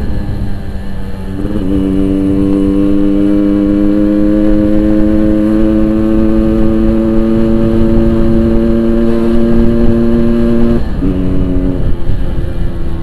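Yamaha RX-King 135cc single-cylinder two-stroke motorcycle running through an aftermarket Boban exhaust while being ridden. The engine holds a fairly steady pitch, changes pitch about a second and a half in, and steps down near the end.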